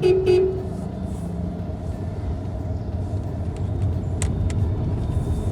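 Car driving along a road, a steady low rumble of engine and tyres, with a short higher tone right at the start.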